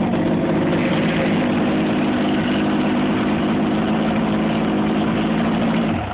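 Force 90 two-stroke outboard motor idling steadily on its first cold start of the season after months unused, then shut off suddenly near the end.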